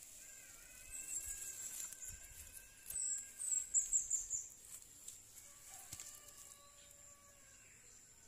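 Birds chirping in quick, high notes, loudest a few seconds in, over a faint steady high-pitched whine.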